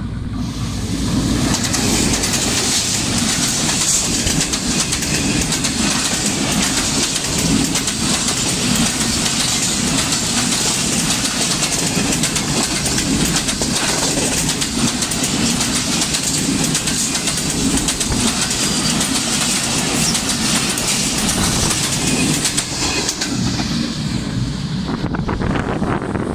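Diesel-hauled express passenger train passing at speed: coaches rolling by close to the track with loud wheel-on-rail noise and clatter. The high rushing part of the noise falls away near the end as the last coaches go by.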